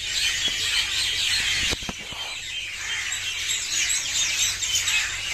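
A chorus of many birds chirping and twittering together in trees, a dense, unbroken mass of overlapping high calls.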